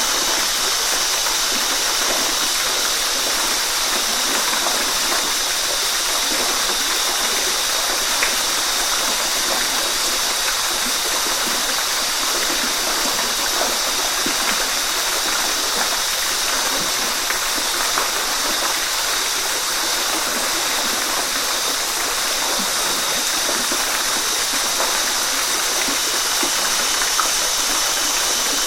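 Waterfall: a steady rush of falling water with splashing, hissing most in its upper range.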